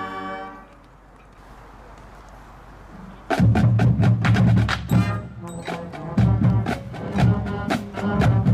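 A band's held chord dies away in the first second, followed by a quieter lull. About three seconds in, the band starts a loud drum-driven beat, with sharp clicking strikes over lower notes.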